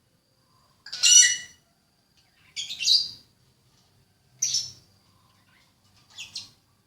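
A bird calling four times, each a short call of about half a second with several pitches together, spaced nearly two seconds apart; the first two calls are the loudest.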